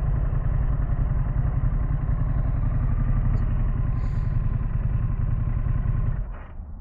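2024 Harley-Davidson Pan America's V-twin engine running steadily with a dense low pulse; the sound drops away sharply about six seconds in.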